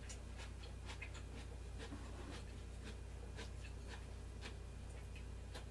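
A person eating: chewing a mouthful, with scattered small irregular clicks and light taps, over a steady low hum.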